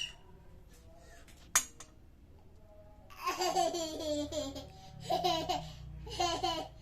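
A sharp click about a second and a half in, then a small child's high-pitched laughter and babbling in three bursts over the last few seconds.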